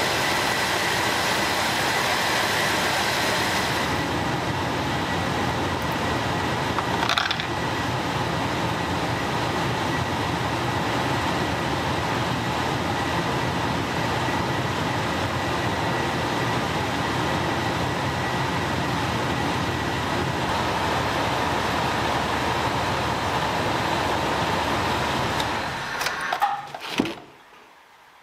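Steady running noise of a 2000 Jeep Wrangler TJ warming up with the heater blowing, run to temperature to check the new heater core for coolant leaks. It cuts off about 26 seconds in, followed by a few clicks.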